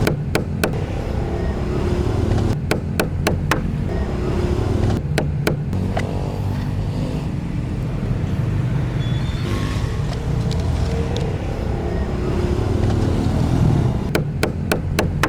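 Short runs of sharp, evenly spaced taps, about five a second, recurring several times over a steady low rumble.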